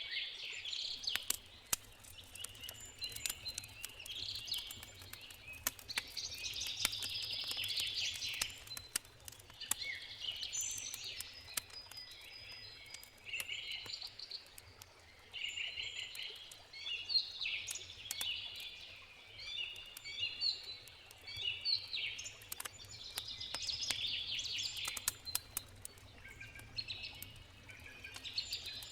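Songbirds singing in repeated short phrases, over the sharp pops and crackle of a wood campfire and a faint steady low river rush.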